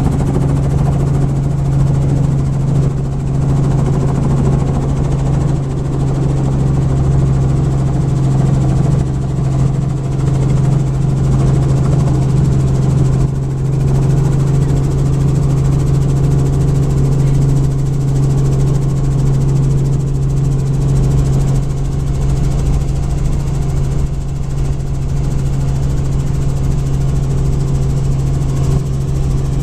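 Helicopter's engine and rotors running at a steady pitch: a constant low drone with a strong hum.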